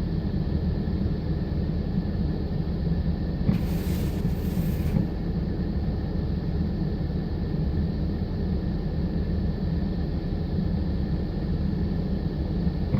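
Blizzard wind buffeting the microphone: a steady low rumble, with a brief rise of hiss about four seconds in.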